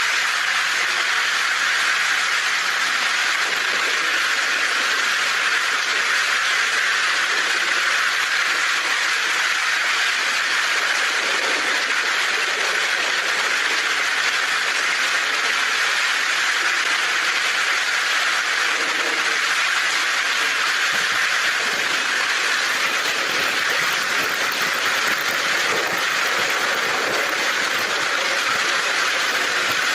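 Heavy rain drumming on a tin roof as a steady, even hiss, with no thunder.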